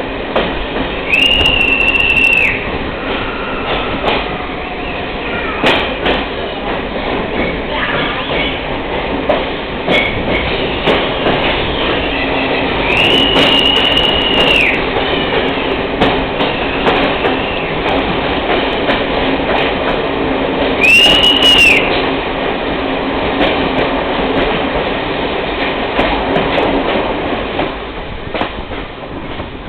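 Passenger train running on rails, with a steady rumble and irregular clacks over the rail joints. Three high, steady wheel squeals come about a second in, near the middle and about two-thirds through, each lasting a second or two.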